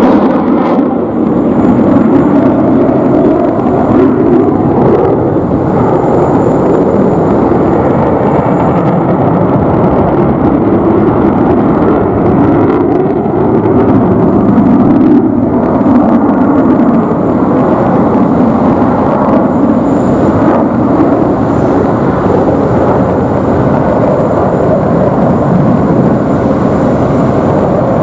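Loud, continuous jet noise from a Boeing F-15QA's twin General Electric F110 engines in flight, swelling and easing slightly as the jet moves.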